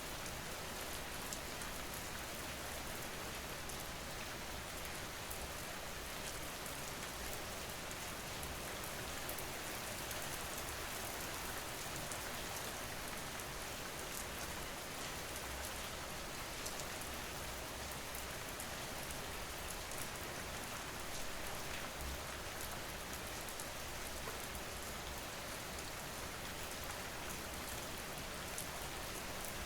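Steady rain falling, a continuous hiss with many small drop ticks, unchanging throughout.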